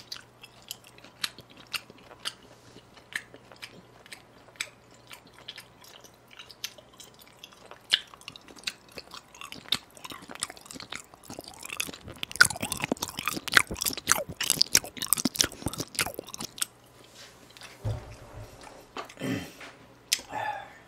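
A person chewing raw beef sashimi close to the microphone with wet, open-mouthed smacking, made loud on purpose for the mukbang feel. The smacking comes as scattered short clicks, growing much denser for a few seconds about twelve seconds in.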